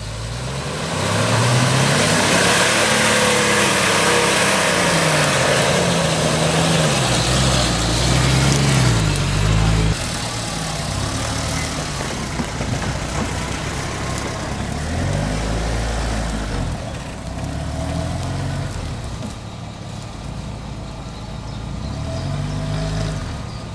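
Off-road 4x4's engine revving up and falling back again and again as it works through the terrain. A loud rushing noise runs over the engine for the first ten seconds or so.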